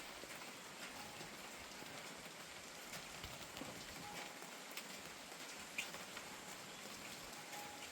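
Steady rain falling, with scattered single drops tapping sharply over the hiss, the loudest about six seconds in.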